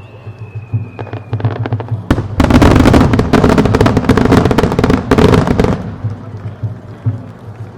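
A fireworks starmine volley: a few scattered bangs, then, about two seconds in, a dense rapid barrage of shell bursts and crackle that lasts about three and a half seconds before dying away.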